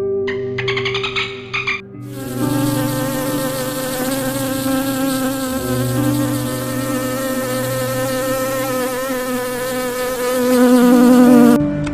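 Steady insect buzz, the hum of a flying insect's wings, wavering slightly in pitch. It starts about two seconds in and cuts off just before the end.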